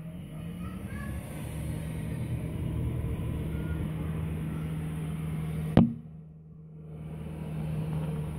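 Snow plow's engine running steadily and growing louder over the first few seconds. A single sharp click comes near the end, followed by a brief drop in level.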